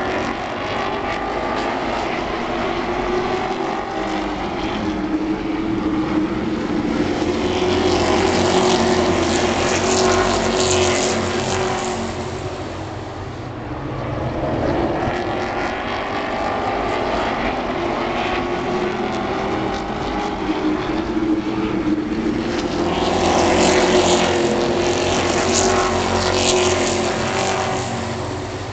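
Pack of racing super trucks running laps on an oval track, engines swelling loud as the field passes, about twice, then fading as it goes around.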